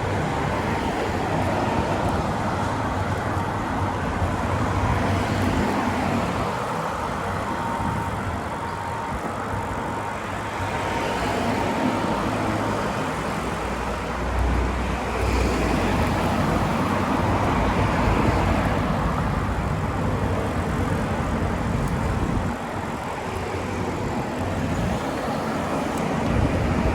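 Steady road traffic noise, with cars and other vehicles passing on the road, heard from a road bicycle being ridden along it.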